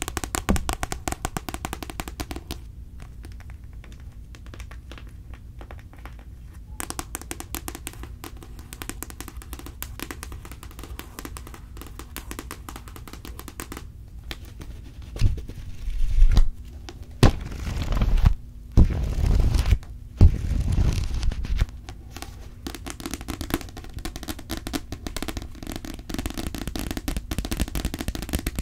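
Close-miked ASMR mouth sounds: a dense stream of fast, crackling clicks, with several louder, noisier bursts about halfway through.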